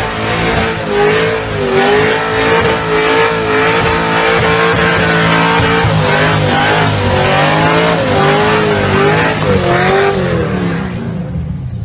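Car engine held at high revs while drifting, its pitch dipping and rising as the throttle is worked, over the hiss of tyres squealing. The sound fades away near the end.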